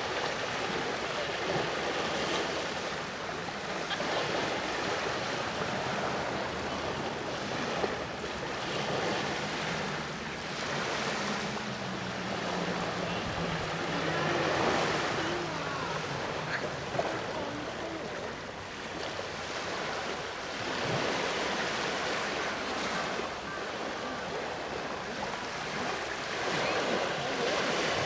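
Sea waves washing onto the shore, the surf swelling and easing every few seconds. A faint low hum of a distant boat engine runs under it in the middle stretch.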